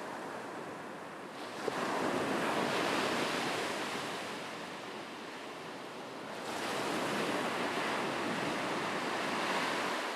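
Ocean waves breaking on a shore: a steady wash of surf that swells twice, about a second and a half in and again about six and a half seconds in.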